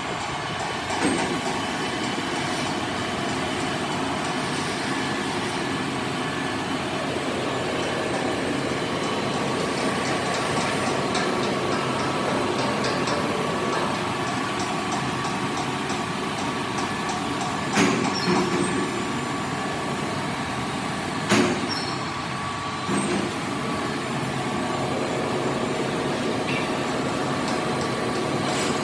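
Machinery running steadily with a constant hum, broken by a few sharp metal knocks, the two loudest about two-thirds of the way through.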